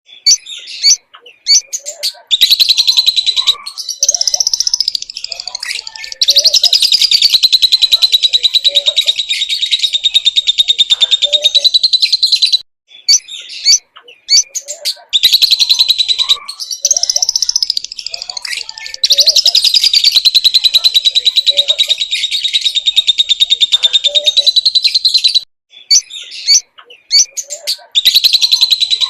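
Lovebird singing hard: long, rapid, high-pitched chattering trills, each running on for several seconds, broken by short chirps. This is the long 'ngekek' chatter that keepers prize in a lovebird in top singing form.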